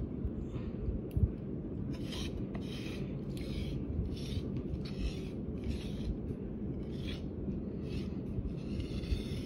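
Crisp roast pork crackling crunching as it is chewed, about two crunches a second, over a steady low background rumble.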